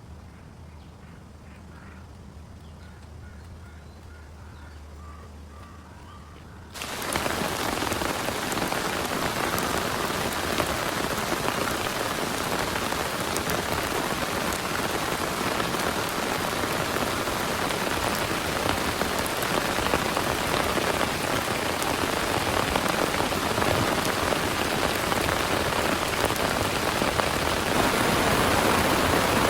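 Heavy rain, a dense steady hiss of downpour, starting suddenly about seven seconds in after a quiet stretch and holding steady from then on.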